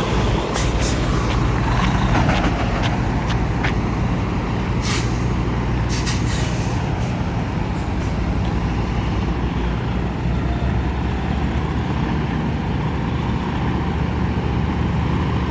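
Semi-truck diesel engine idling steadily, with several brief hisses of compressed air from the air brakes in the first half.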